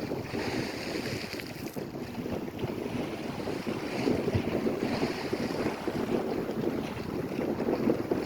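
Lake Erie waves washing and lapping at the shore, a steady rolling wash, with wind buffeting the microphone.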